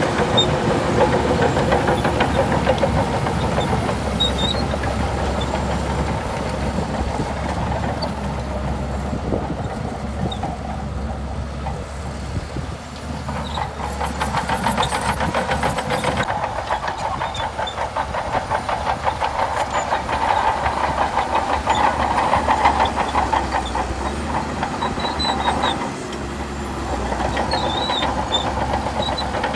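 Shantui DH17C2 crawler bulldozer at work: its diesel engine running under load with the continuous clatter of steel tracks. The sound eases about twelve seconds in and builds again a couple of seconds later.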